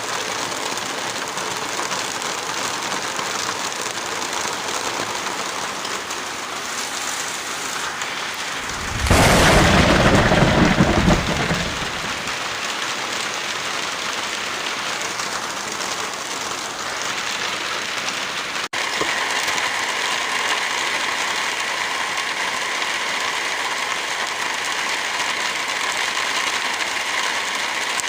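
Steady rain falling, with a loud, deep roll of thunder about nine seconds in that lasts two to three seconds. Past the midpoint the rain cuts out for an instant and comes back slightly louder and brighter.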